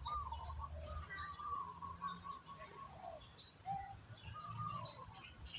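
Birds chirping and warbling faintly, with short calls overlapping a longer wavering song in the first two seconds, over a faint low hum.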